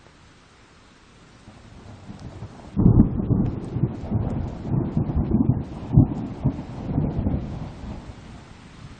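Thunder rumbling over steady rain: a low rumble swells, breaks sharply about three seconds in, and rolls on in uneven peaks for about five seconds before dying away.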